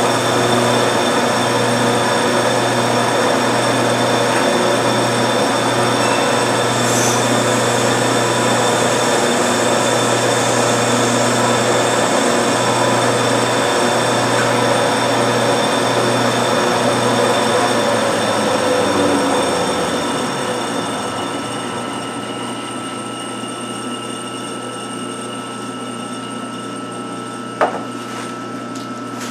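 1952 Wade 7 turret lathe running with a steady machine hum. About two-thirds through the low hum stops and the sound drops to a quieter steady running noise, with one sharp click near the end.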